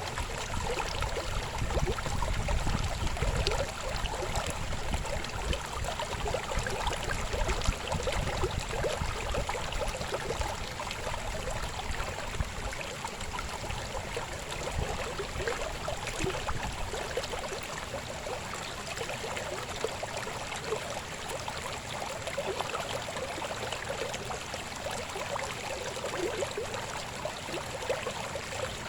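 Shallow river babbling and gurgling steadily over stones, with a low rumble of water under it that eases off about halfway through.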